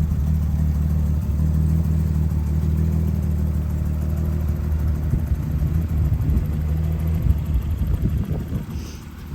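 Car engine idling steadily with a low, even hum, heard close up at the engine and underneath the car. About five seconds in, irregular knocks break into the hum, with one sharp knock. Near the end the engine sound drops in level.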